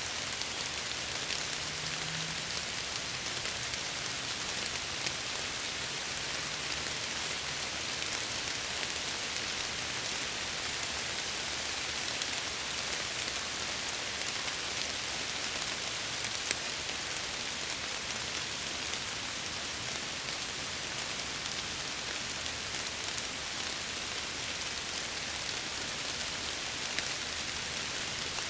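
Steady rain pattering on window glass, with scattered individual drop ticks.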